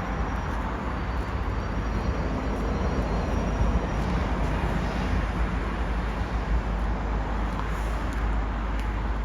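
Steady rumble of a train running past, with a faint high whine during the first few seconds.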